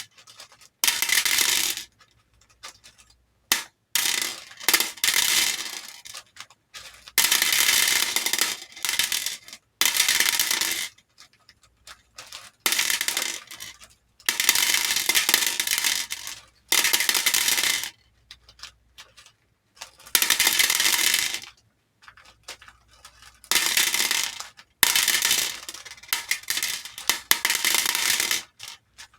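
Hair beads poured and tumbling into a bowl, clattering in a run of about a dozen pours, each lasting a second or two, with short pauses between them.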